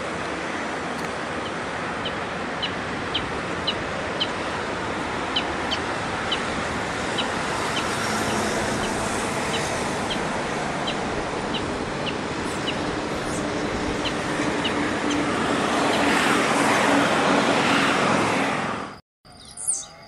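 A bird's short, sharp, high chip calls, repeated about twice a second over a steady, loud rushing background noise. The rushing swells near the end and then cuts off suddenly.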